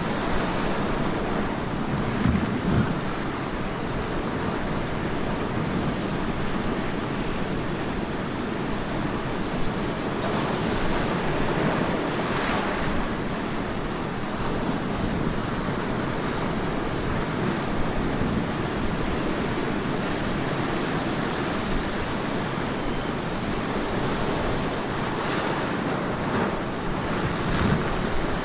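Ocean waves breaking on a beach, a steady rush of surf that swells in several surges, with some wind on the microphone.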